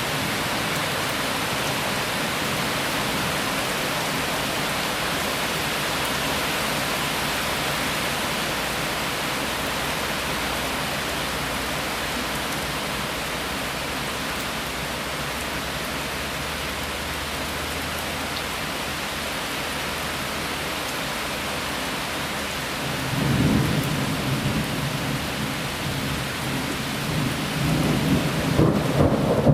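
Heavy rain falling steadily during a thunderstorm. About twenty-three seconds in, a low rumble of thunder rolls in, and it swells louder again near the end.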